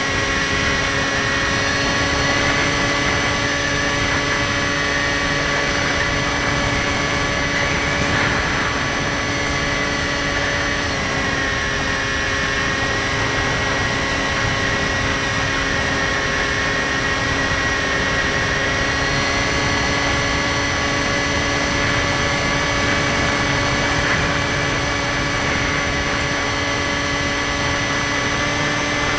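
Skywalker 1680 RC plane's electric motor and propeller running at a steady throttle in flight, a steady whine over a rushing of air. The pitch steps slightly about eleven seconds in.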